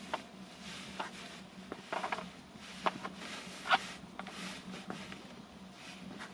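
Light handling sounds of a game being played by hand: scattered soft clicks and short rustles, with one sharper click a little before four seconds in, over a faint steady low hum.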